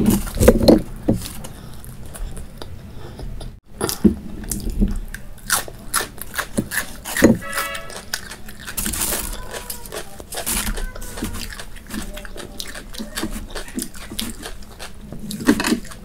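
Close-miked chewing of soft flatbread and curry, with irregular wet smacks and mouth clicks. There is a brief hum about seven seconds in.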